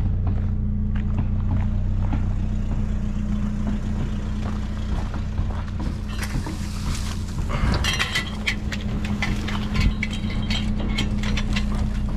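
A vehicle engine runs with a steady low hum, and from about six seconds in there are scattered metallic clinks and rattles.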